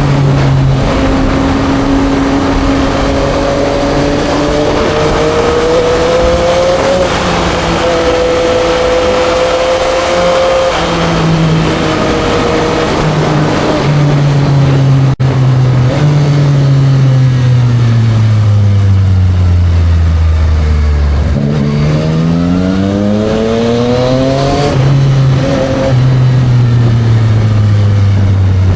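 Yamaha MT-09 SP's three-cylinder engine through a Spark triple-exit full exhaust while riding. It pulls up through the gears at first, the revs fall away steadily in the middle as the bike slows, then rise steeply in a hard acceleration near the end.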